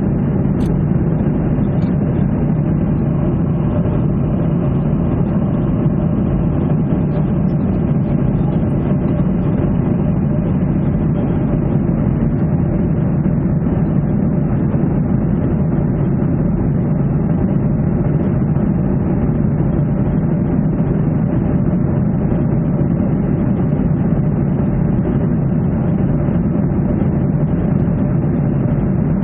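Steady, loud drone of jet engines and rushing air heard inside a Ryanair airliner's cabin, unchanging throughout.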